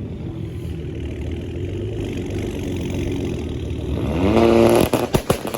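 Car engines running as cars pull away. About four seconds in, one engine revs up sharply with its pitch rising, the loudest sound here, then drops off and is followed by several sharp pops near the end.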